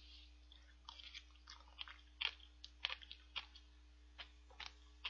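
A person chewing a mouthful of mango shaved ice: faint, irregular small clicks and smacks of the mouth, about a dozen over a few seconds.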